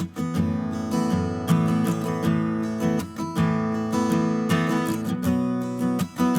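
Background music: a strummed acoustic guitar playing.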